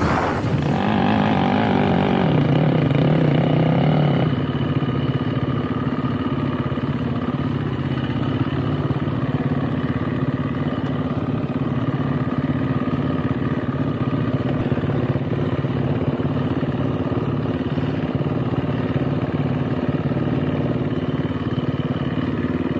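Dirt bike engine running under way, louder and rising in revs for the first four seconds, then settling to a steadier, lower drone.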